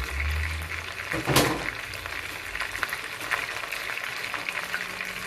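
Chicken, onion and tomato sizzling in hot oil in a pot, a steady crackling hiss, with one sharp knock about a second and a half in.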